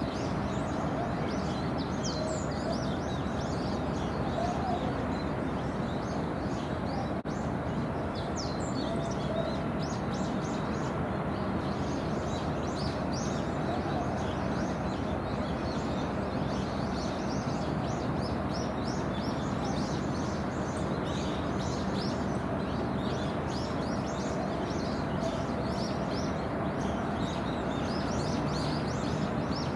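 Small birds chirping, many short high calls again and again, over a steady low background noise.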